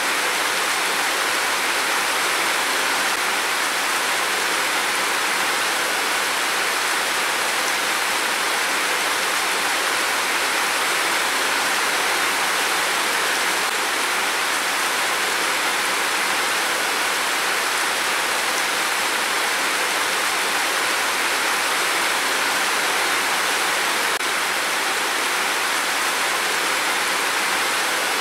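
Heavy rain pouring in a steady downpour, an even hiss of water with no thunder heard.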